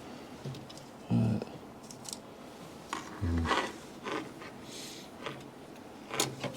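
Hand tools and metal engine parts handled at close range: a series of scattered sharp metallic clicks and light scrapes, with two short low vocal sounds about a second in and after three seconds.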